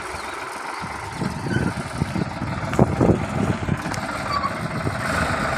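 Farmtrac 45 tractor's diesel engine running under load as it pulls soil, with a run of irregular low thuds and knocks between about one and three and a half seconds in.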